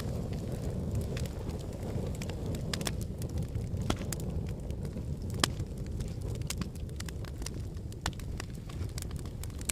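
Wood fire burning in a fireplace: a steady low rumble of flames with irregular crackles and sharp pops from the burning logs, two louder pops about four and five and a half seconds in.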